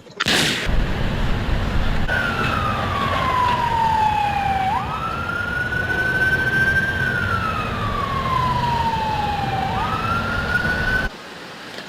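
A siren wailing, its pitch sliding slowly down over two or three seconds, jumping quickly back up and holding, then sliding down and up again, over a loud steady low rumble. Everything cuts off abruptly shortly before the end.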